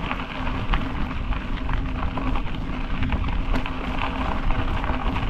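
Wind rushing over a bike-mounted GoPro's microphone as the bicycle rolls along a road, a steady low rush with a few light ticks from the bike.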